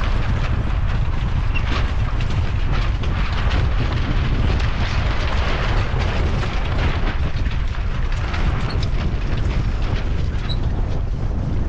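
Strong wind buffeting the microphone on a small sailboat in gusty 25–30 knot wind, a steady heavy rumble with water rushing and splashing along the hull.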